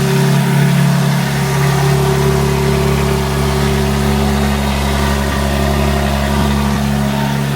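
BMW G80 M3's twin-turbo inline-six idling steadily and loudly just after a cold start.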